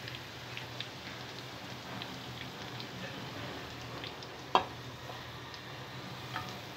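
Cornflour-coated corn kernels deep-frying in hot oil: a steady sizzle with scattered crackling pops, as a perforated skimmer stirs and lifts them. One sharp knock about two-thirds of the way through is the loudest sound.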